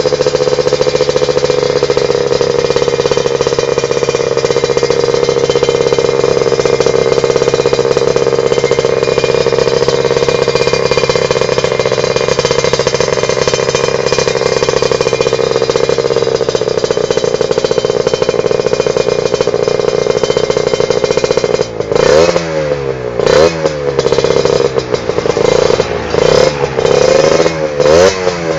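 Kawasaki Ninja R/RR two-stroke single-cylinder motorcycle engine running through an aftermarket racing exhaust: idling steadily at first, then from about 22 seconds in, repeated throttle blips, the pitch rising and falling with each rev.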